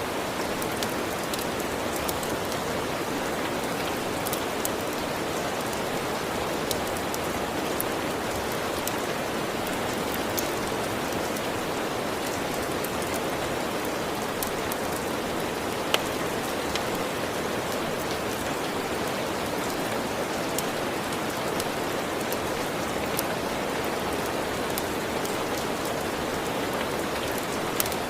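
Steady, even rain falling on a surface, with scattered sharp ticks and pops across it.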